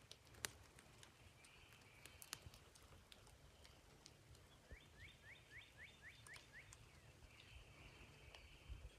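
Faint birdsong: a bird repeats a short upslurred note about eight times in quick succession, about four a second, midway through, with a buzzy trill before and after. Scattered light clicks.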